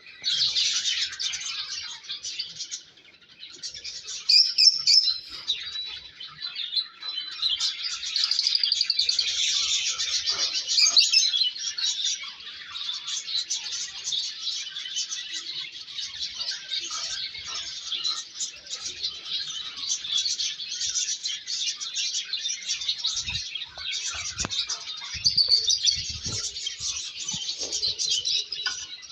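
A group of lovebirds chirping and chattering continuously, a dense mix of overlapping high chirps.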